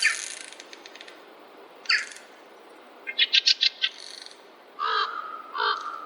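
Several forest birds calling over a faint steady hiss: short separate calls, a quick chattering run of about seven notes a little past the middle, then two lower, harsher calls near the end.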